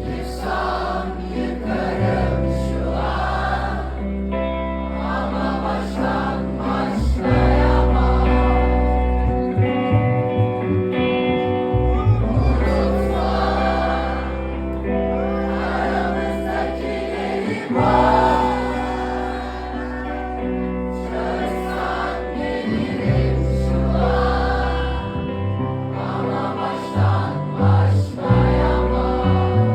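Live band playing a song with singing, held bass notes changing every few seconds under sustained chords.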